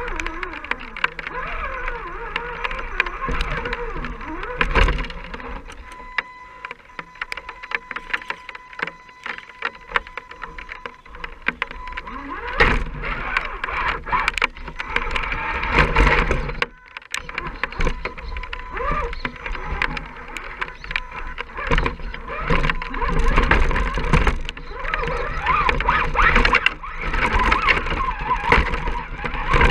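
Electric motor and gear whine of an RC scale rock crawler, rising and falling with the throttle, mixed with many sharp clicks and knocks of the truck working over rough ground.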